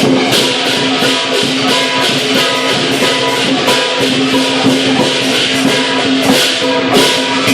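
Lion dance percussion ensemble of drum, cymbals and gong playing a steady, loud beat, with about three cymbal crashes a second over a sustained metallic ring.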